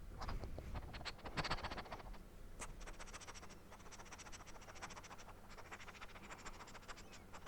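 Close-miked ASMR mouth sounds: very fast, wet, crackling tongue and lip clicks, a short burst followed by a longer run.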